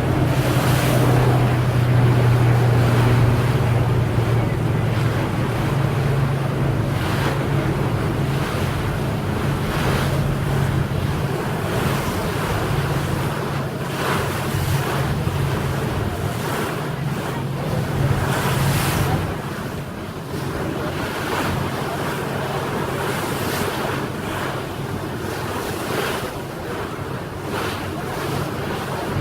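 A boat's engine running with a steady low hum under wind buffeting the microphone and rushing water. The engine hum fades out about two-thirds of the way through, leaving the wind and water.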